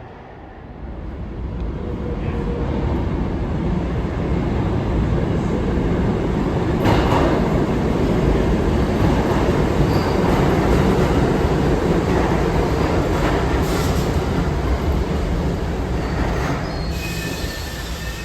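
New York City subway train running through the station on steel rails. Its rumble builds about a second in and holds, with wheel squeal and clatter, then eases near the end.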